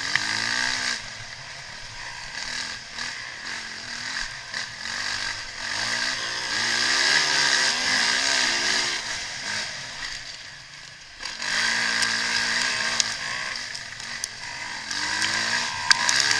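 Motocross bike engines revving up and down over and over, with a short lull about two-thirds of the way through.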